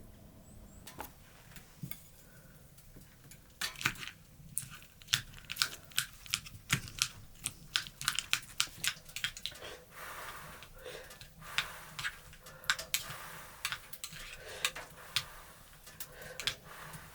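Irregular sharp clicks and light clatter of small hard objects being handled, several a second, starting a few seconds in.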